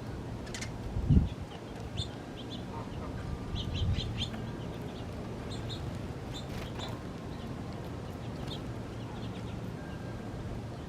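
Small birds chirping, with short high calls scattered through, over a steady low hum. There is a brief low thump about a second in.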